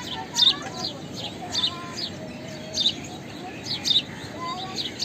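House sparrow chirping, short sharp chirps repeated about once a second.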